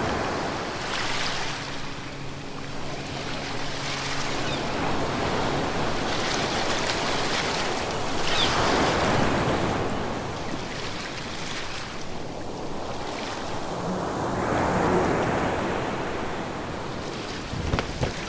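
Ocean waves: the surf swells and falls back in slow surges about every seven seconds.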